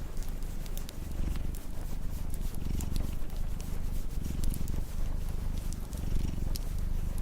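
A domestic cat purring, a low rumble that swells and fades with each breath, over the sharp scattered pops of a crackling wood fire.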